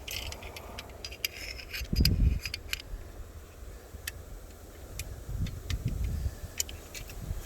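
Sven folding bow saw being unfolded and assembled by hand: scattered light metallic clicks and rattles of the blade and frame. Low gusts of wind buffet the microphone about two seconds in and again near the end.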